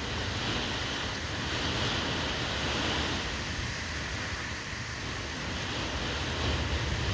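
Hurricane-force wind blowing in gusts, buffeting the microphone with a low rumble.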